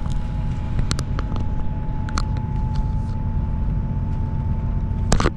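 Passenger train running, heard from inside the carriage: a steady low rumble with a thin constant whine, and scattered sharp clicks and knocks, the loudest near the end.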